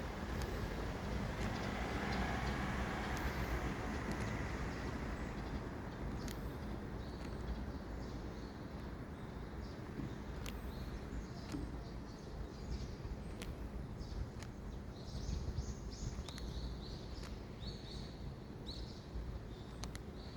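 Outdoor background noise: a steady low traffic rumble, louder for the first few seconds as something passes, with small birds chirping in short bursts through the second half.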